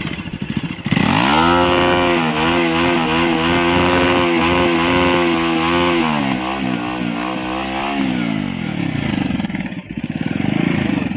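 Bajaj Pulsar 220F single-cylinder engine revved hard through its home-modified stock exhaust: the revs rise sharply about a second in, hold high for several seconds, then drop back to a lumpy idle. The exhaust is loud because the stock pipe was cut and rejoined with a sleeve pipe that leaves a gap, with the dB killer still fitted.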